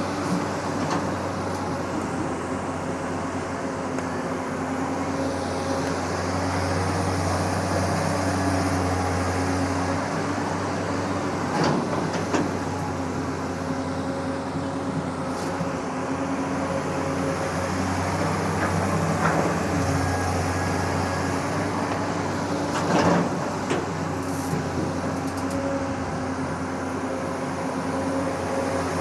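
Long-arm excavator's diesel engine running steadily, its hum shifting as the machine works, with a few short knocks around the middle and again later.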